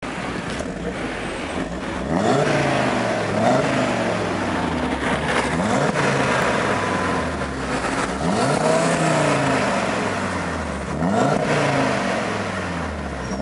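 Audi TT-RS's turbocharged 2.5 TFSI five-cylinder engine idling, then revved about four times, the pitch climbing quickly and falling back toward idle after each rev.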